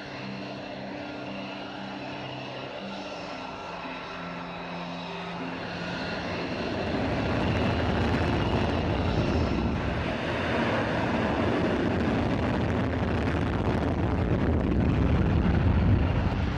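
Jet aircraft engine noise that swells about six seconds in and then holds steady and loud.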